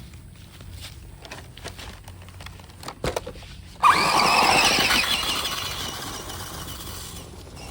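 A radio-controlled car taking off suddenly about four seconds in: a loud whining squeal from its motor and wheels that fades over the next few seconds as it drives away. Light clicks and shuffling before it.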